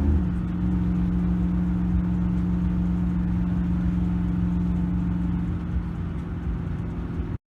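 Truck engine running at a steady speed, its pitch dropping slightly at the start and then holding even; the sound cuts off abruptly near the end.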